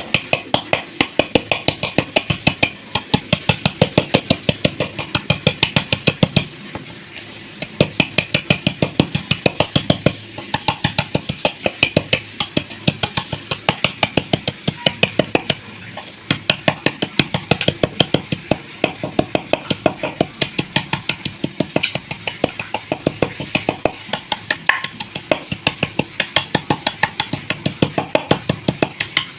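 Dry clay (mitti) shapes being crushed, a quick run of crunches at about three to four a second with a few short breaks.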